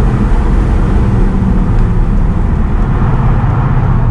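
Mercedes C63 AMG's 6.2-litre naturally aspirated V8 running steadily while the car is driven, heard from inside the cabin mixed with road and tyre noise.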